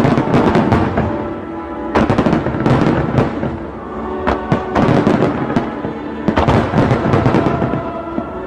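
Fireworks bursting in rapid crackling volleys, several clusters of sharp bangs a couple of seconds apart, over background music with sustained tones.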